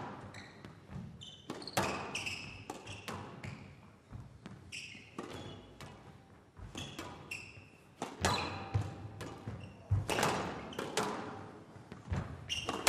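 Squash rally: the ball cracking off rackets and walls in a quick irregular series of sharp hits that ring in a large hall, with short high squeaks of court shoes in between.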